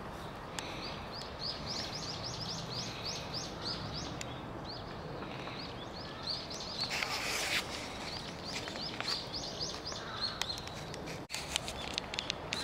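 A small bird calling over steady outdoor background noise: a long run of short, rising high chirps, about two or three a second, with a short break about seven seconds in. A few sharp clicks near the end.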